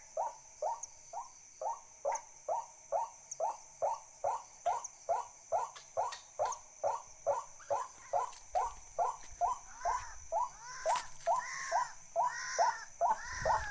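An animal's short call note repeated steadily about two and a half times a second, growing louder and fuller over the last few seconds. A steady high hiss runs underneath.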